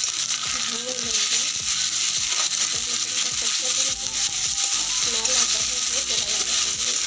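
Chopped onions and ginger-garlic paste sizzling steadily in hot oil in a kadai, while a steel spatula stirs them.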